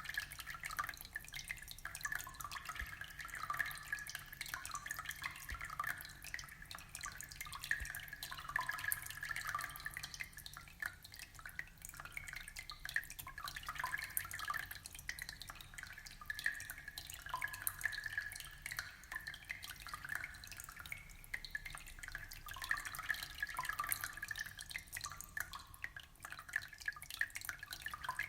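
Aquarium water trickling and dripping: a steady, dense patter of small drips.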